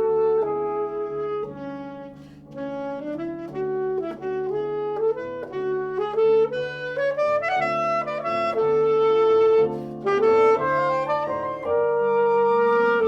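Flute and alto saxophone playing a melody in duet over a recorded accompaniment.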